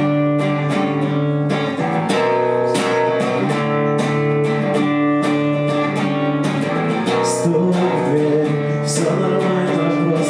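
Acoustic guitar strumming chords in a steady rhythm: a song's instrumental intro.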